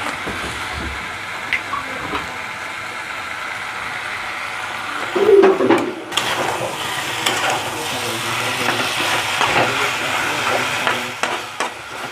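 Chicken pieces sizzling in sauce in a pan while being stirred, with a steady hiss and the clicks and scrapes of the stirring utensil against the pan; the loudest scrape and clatter comes about five seconds in.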